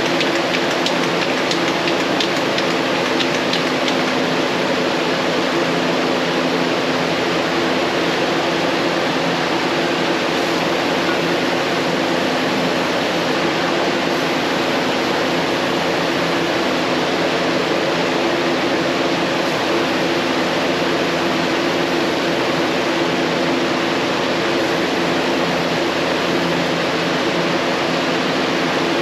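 Steady, loud machine noise: an even hiss with a low hum, constant throughout.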